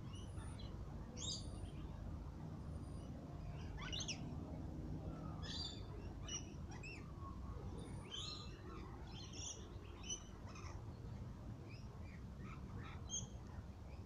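Wild birds calling: scattered short chirps and quick up-and-down notes from several birds, with a fast falling call about four seconds in. A steady low rumble runs underneath.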